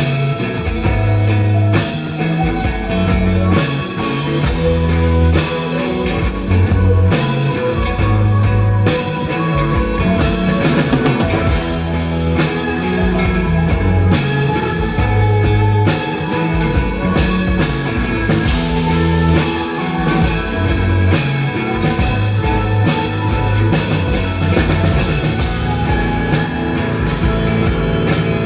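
Live rock band playing an instrumental passage: electric guitar and bass over a steady drum-kit beat, with no singing.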